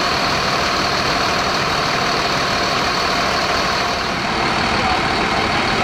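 Fire truck's engine running steadily, with an even, continuous rushing noise over it.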